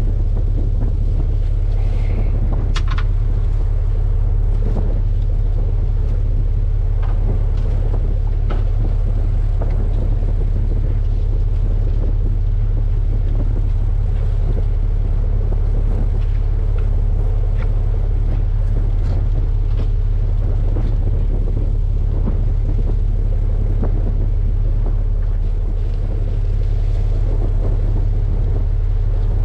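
Fishing boat's engine running steadily, a low constant rumble with a steady hum above it, and a few faint knocks scattered over it.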